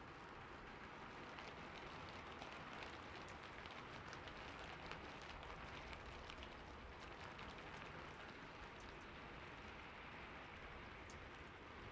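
Rain falling steadily on a roof: a quiet, even patter with scattered sharper ticks of single drops striking.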